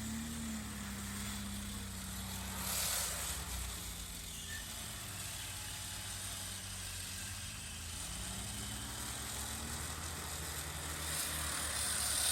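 Off-road 4x4 engine running at low revs, its pitch sagging in the middle and rising again, with a brief hiss about three seconds in.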